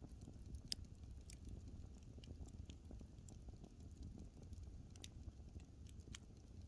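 Burning wood crackling faintly, with scattered sharp pops and snaps, the loudest a little under a second in, over a low steady rumble.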